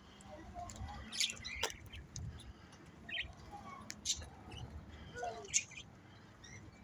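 Small caged aviary birds chirping, a scattered handful of short high chirps.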